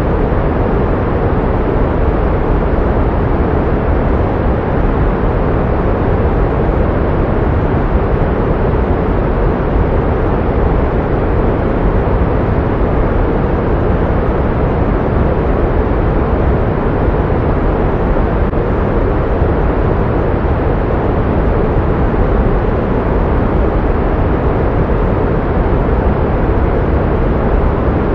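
Steady pink noise, an even hiss that is deeper and softer than white noise, with more weight in the low end and little above the upper treble. It holds constant, with no change in level or character.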